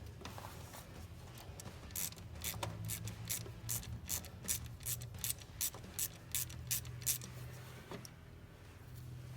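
Ratcheting socket wrench with a 10 mm socket clicking as it backs out an ignition coil mounting bolt: a run of about fifteen sharp clicks, two to three a second, from about two seconds in until about seven seconds.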